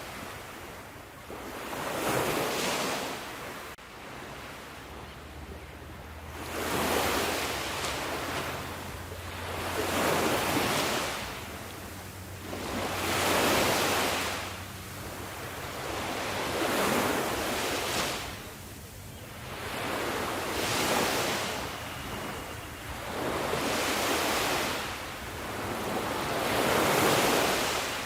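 Sea waves breaking on a shore, one after another about every three to four seconds, each surge of surf swelling up and washing back.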